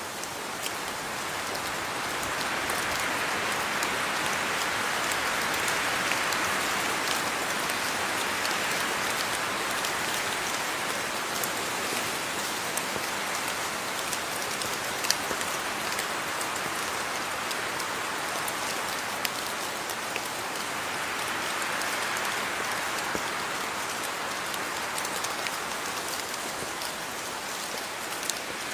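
Steady rain falling, a dense hiss with scattered drop ticks, swelling and easing slowly in intensity.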